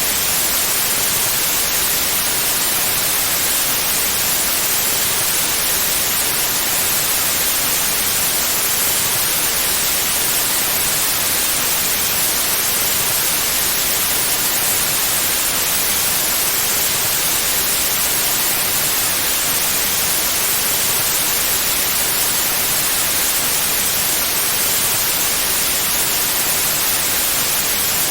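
Steady, unbroken white noise: an even hiss across the whole range, brightest in the highs, that never changes.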